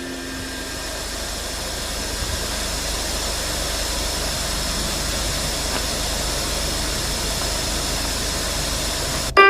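Steady engine-like noise with a low hum, growing slightly louder over the first few seconds and cutting off suddenly near the end.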